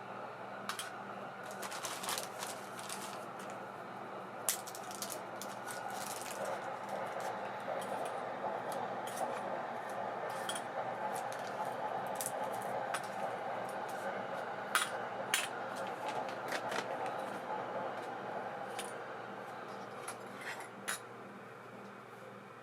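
Light metallic clicks and clinks, scattered and irregular, as small parts of an ABU Ambassadeur baitcasting reel are handled, over a steady hiss.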